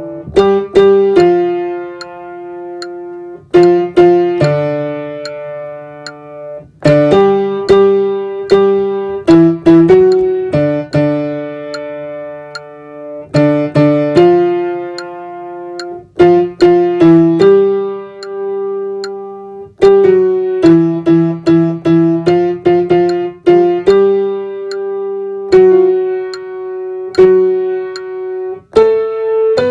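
Piano playing a slow worship-song accompaniment in struck, ringing chords, with the alto part carried as a held line of notes for practising.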